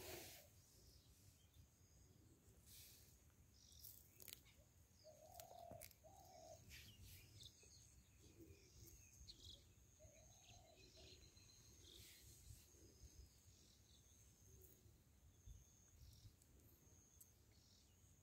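Near silence, with faint bird chirps now and then.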